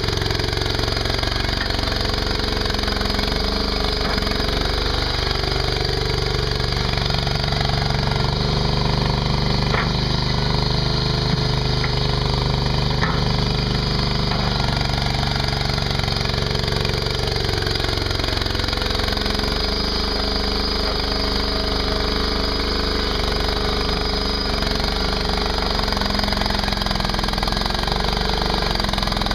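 Mini skid steer's engine running steadily while the machine works dirt, its pitch sagging and recovering a couple of times as the load changes.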